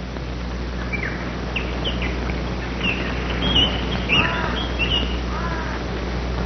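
A series of short bird chirps and calls, most between about one and five seconds in, two of them fuller and falling in pitch, over a steady hiss and low hum.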